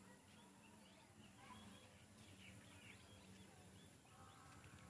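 Faint, scattered bird chirps over low background noise.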